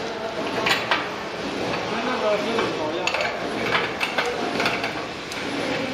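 Metal parts of a nose wire rack clicking and clinking as it is assembled or taken apart by hand, with sharp clicks every half second or so, over background voices.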